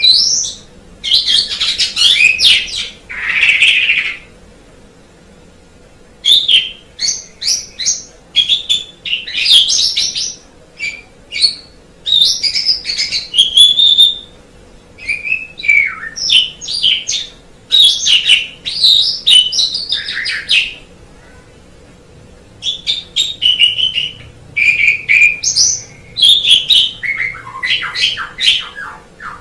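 Asian pied starling (jalak suren) singing a loud, varied song of whistles, chattering and harsh notes in bursts, with two pauses of about two seconds, one near the start and one about two-thirds through.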